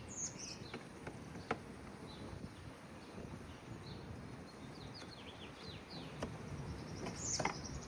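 Small birds chirping over a quiet outdoor background, broken by a few sharp clicks.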